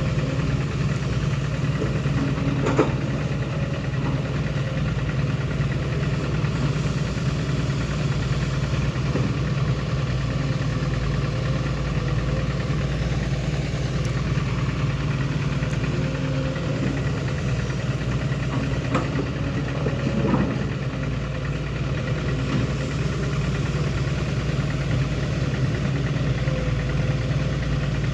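An engine idling steadily, with a couple of brief knocks about 3 seconds in and again around 20 seconds in.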